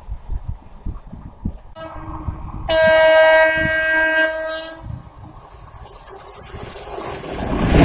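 Indian Railways locomotive horn blown once, a steady multi-note blast of about two seconds, followed by the rising rush of a train approaching at speed that grows loudest near the end. Scattered low thumps come before the horn.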